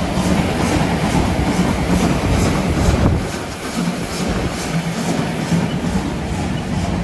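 Train running along the track: a steady rumble with a regular clickety-clack of wheels over rail joints.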